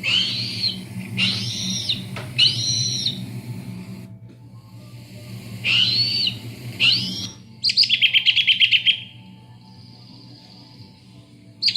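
Recorded bird calls played through the loudspeaker of an Arduino bird scarer: three arched calls about a second apart, two more around six seconds in, then a rapid rattling trill near eight seconds and another starting at the end. A low steady hum sits underneath and stops about seven seconds in.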